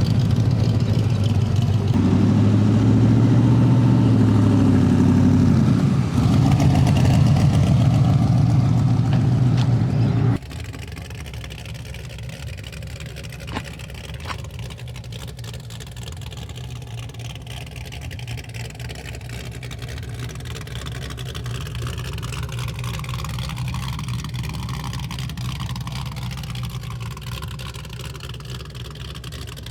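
Loud car engine running with a deep rumble, lifting a little about two seconds in, then cut off abruptly about ten seconds in. A quieter, steady engine idle follows, with a single tick partway through.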